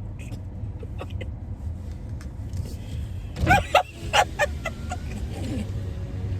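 Steady low road rumble inside a moving car's cabin. A few short, loud vocal sounds break in about three and a half to four seconds in.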